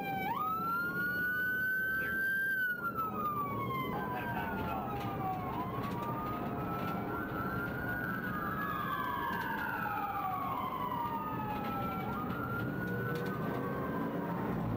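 Police car sirens wailing, heard from inside a pursuing patrol car: slow rising and falling sweeps, two sirens at times overlapping, over the steady rumble of the car's engine and tyres at speed.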